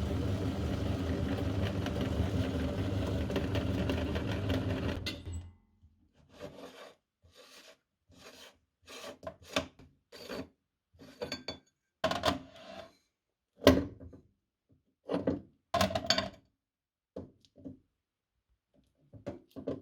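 Electric meat grinder running as it grinds mini ice cream cones, then cutting off about five seconds in. After that come a dozen or so short, irregular scraping and crunching noises.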